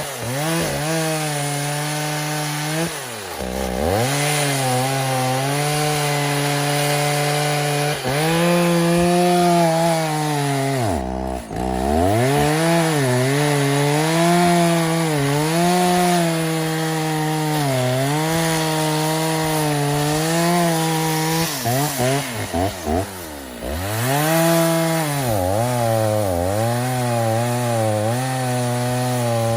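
Freshly rebuilt Stihl 029 two-stroke chainsaw with a 45 mm piston and cylinder, on its first tank, running at high revs while cutting wood. Its pitch wavers under load. It drops to a low idle about three, eleven and twenty-three seconds in, then revs straight back up.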